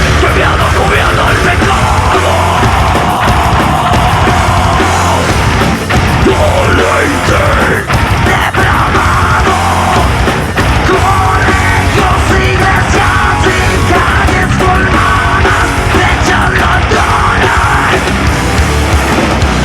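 Heavy metal band playing live, loud and dense, with rapid, closely packed drum hits.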